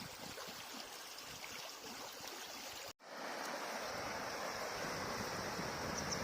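River water running steadily. About halfway through it cuts off for an instant and resumes as a denser, slightly louder rush.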